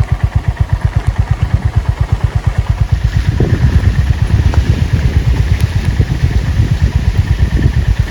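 Honda CB350 RS's single-cylinder engine idling with an even, slow exhaust thump. About three seconds in, the beat quickens and grows louder as the throttle is opened.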